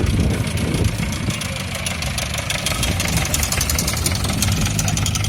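Tractor engine running at idle or low revs, with a fast, even firing beat.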